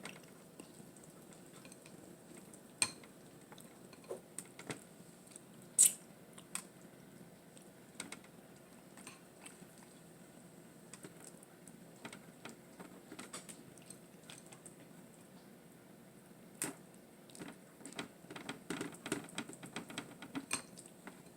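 Quiet eating of a chicken salad sandwich: scattered small clicks and taps like dishes and cutlery, with one louder click about six seconds in and busier mouth and handling sounds near the end.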